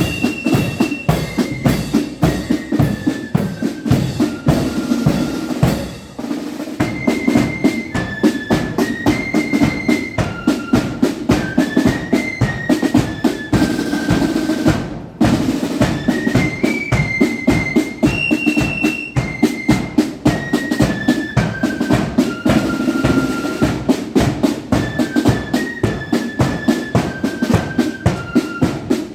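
Marching flute band playing a march: flutes carry a single high melody over rapid snare drumming and a steady bass drum. The drumming thins briefly about six seconds in, and the whole band pauses for a moment about fifteen seconds in.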